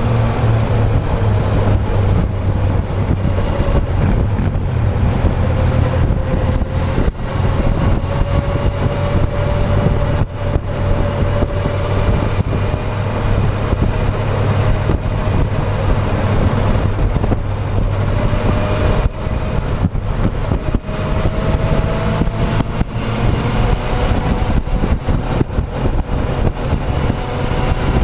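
Motorcycle engine running under way, heard close up from the fuel tank, its pitch slowly rising and falling with the throttle, over steady wind buffeting on the microphone.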